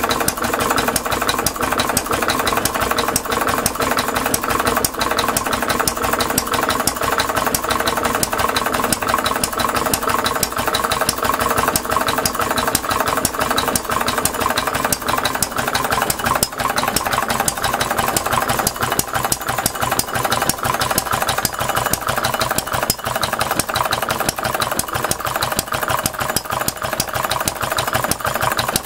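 Scale-model open-crank stationary engine running steadily at a fast, even firing beat.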